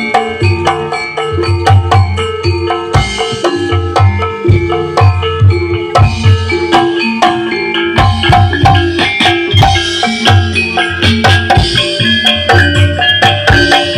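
Javanese gamelan music: tuned metal mallet instruments playing a dense, rhythmic melody over frequent low drum strokes.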